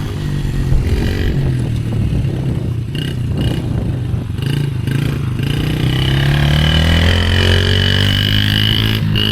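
Dirt bike engine running under throttle while riding, its pitch climbing about six seconds in as it revs up and then holding high.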